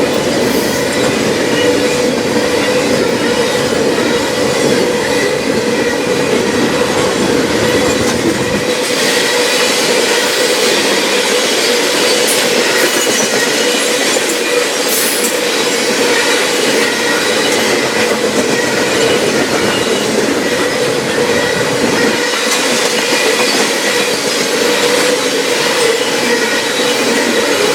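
A train rolling past with its wheels squealing in a steady high tone over the clickety-clack of wheels on the rails.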